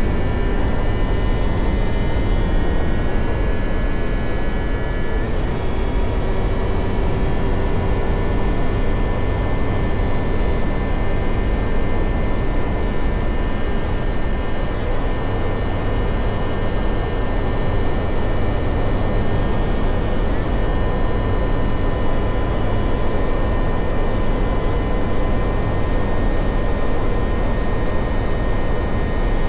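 Motorcycle cruising at a steady speed, its engine holding an even pitch under heavy wind rush.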